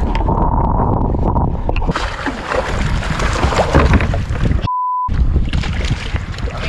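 Wind buffeting the microphone and water sloshing and gurgling around a kayak in rough sea. About two-thirds of the way through, a short pure censor bleep replaces the sound for half a second.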